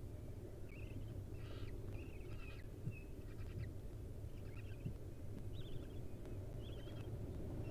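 Faint short bird calls inside a barn owl nest box, some small wavering chirps and a few brief raspy ones, coming every second or so over a steady low rumble.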